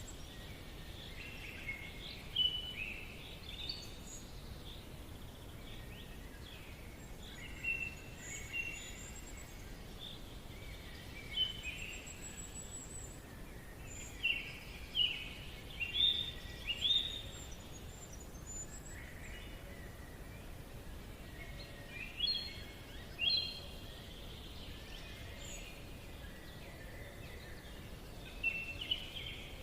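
Forest birds singing: several overlapping chirps and short trilled phrases, with a few thin high calls, over a steady background hiss.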